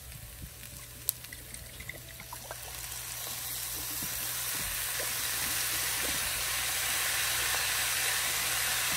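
Rice and vegetables sizzling in a hot skillet as soy sauce goes into the pan, with a few light utensil clicks in the first seconds. About two and a half seconds in, the sizzling grows louder and then holds steady.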